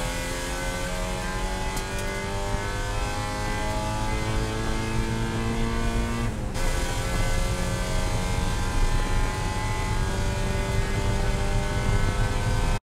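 Spec Miata's four-cylinder engine heard from the cockpit at full throttle, its pitch rising as it revs to nearly 7,000 rpm, then dropping on an upshift about six and a half seconds in before climbing again. The sound cuts off suddenly at the very end.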